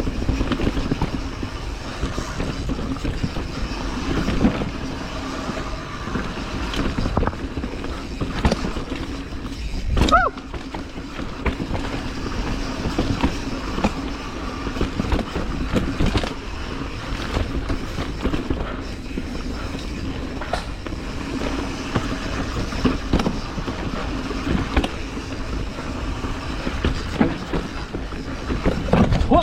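Mountain bike riding down a rough bike-park trail: a continuous rattle of the bike over roots and rocks, with frequent sharp knocks over bumps and a steady hum under it. A brief rising squeal comes about ten seconds in.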